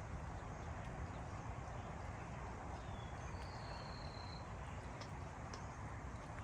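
Outdoor garden ambience: a steady low background hiss with a few faint, brief bird chirps, and one thin whistled bird note about halfway through.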